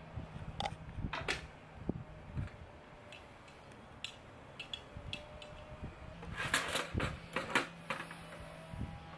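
Scattered sharp clicks and light knocks, with a burst of louder clatter about six and a half to seven and a half seconds in, over a faint steady low hum.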